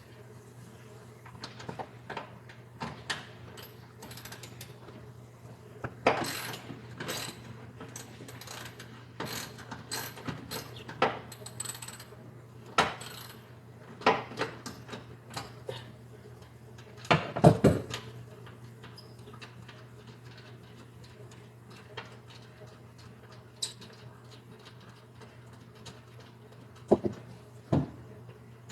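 Irregular clicks, clanks and knocks of hand tools working on metal fittings while a car seat is being unbolted, with a cluster of louder knocks about seventeen seconds in. A steady low hum runs underneath.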